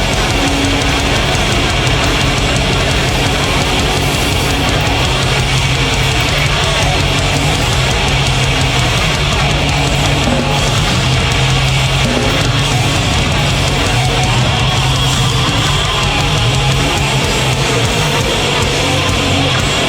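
Metal band playing live and loud: distorted electric guitars, bass and fast drums without a break.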